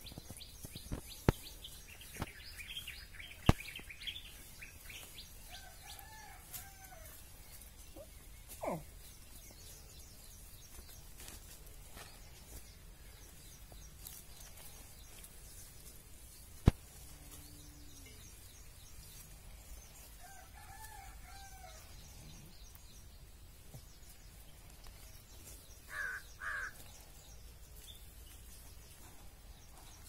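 Faint bird calls: a drawn-out call about six seconds in and another about twenty seconds in, a falling call near nine seconds, and two short calls near the end. A few sharp clicks stand out against the quiet background.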